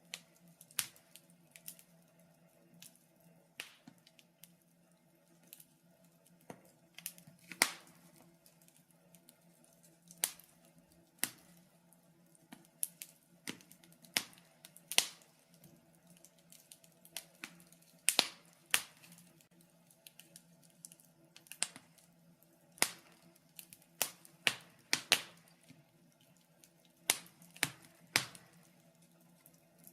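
Wood fire crackling in a fireplace: irregular sharp pops and snaps, a few each second, some much louder than the rest, over a faint steady low hum.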